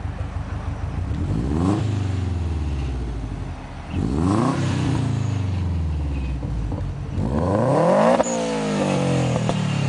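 Subaru WRX bugeye's turbocharged flat-four revved three times with a deep exhaust note, each rev climbing in pitch and falling back to idle. The third rev, near the end, climbs highest and drops off suddenly.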